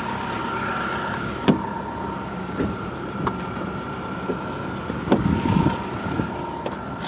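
Steady vehicle hum with a few short knocks and clicks scattered through it; the sharpest knock comes about one and a half seconds in.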